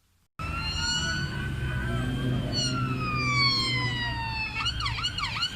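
Police siren sounding over a low vehicle rumble: long, slowly falling wail tones, switching near the end to a fast warbling yelp of about three sweeps a second. It cuts in suddenly just under half a second in.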